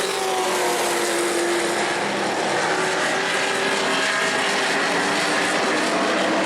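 Pro Truck race trucks' engines running at speed around the short track, a steady engine drone whose pitch slowly falls.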